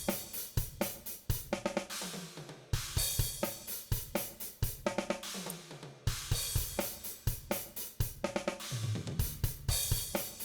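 DrumGizmo virtual drum kit playing back a short looped groove of kick, snare, hi-hat and cymbals, the same pattern of about three seconds starting over twice. This is the room-mic bleed track, carrying room reverb and an EQ low cut.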